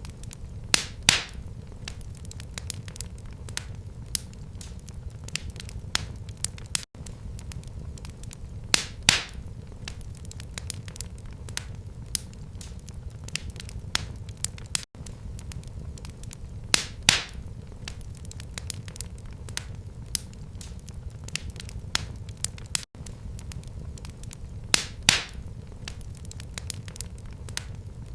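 Fire in a fireplace crackling steadily: many small sharp pops over a low rumble, with a louder pop about every eight seconds.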